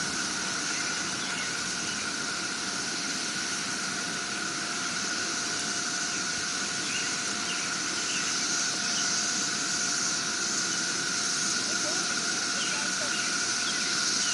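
Cicada chorus: a steady, continuous drone with a high hiss above it, getting slightly louder towards the end.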